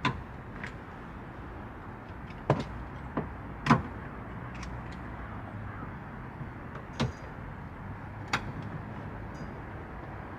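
Scattered sharp clicks and knocks of hands and tools working on a car's body trim, about six in all, over a steady low background hum.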